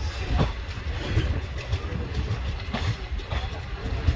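Express train coaches running along the track: a steady low rumble of wheels on rail, broken by a few irregular clacks and knocks as the wheels cross rail joints and points.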